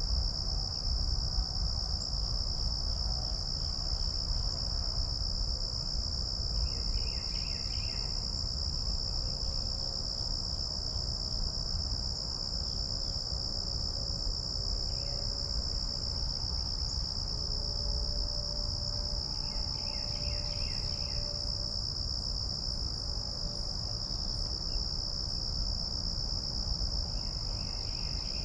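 Steady, unbroken high-pitched trilling of crickets. A short cluster of chirps recurs every several seconds over a low steady rumble.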